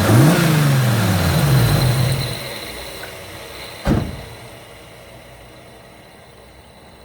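Nissan Skyline GTR's single-turbo RB26 engine revving, its pitch rising and falling, then fading away about two and a half seconds in. A single sharp thump comes near the middle.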